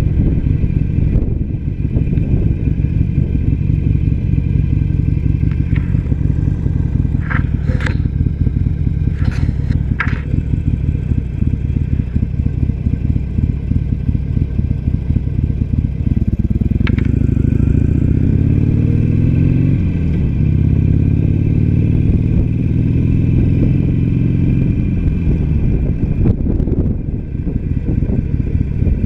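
Harley-Davidson Sportster Iron 883's air-cooled V-twin engine running steadily under a rider. A few sharp clicks come about a third of the way in. Past the middle the engine pulls harder, its pitch rising, dipping once, then rising again as it accelerates.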